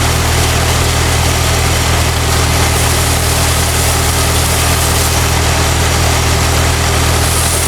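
Old Ford N-series tractor's four-cylinder flathead engine running steadily to drive a PTO roller pump, under the loud hiss of a power-washer water spray.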